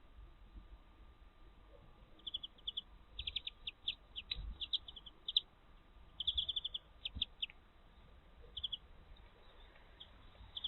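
Small garden birds chirping in quick runs of short, high chirps, in three bursts with pauses between.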